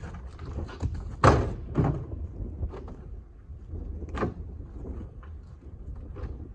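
A few loud knocks and thuds, the loudest about a second in, another just after it and one about four seconds in, over a steady low rumble.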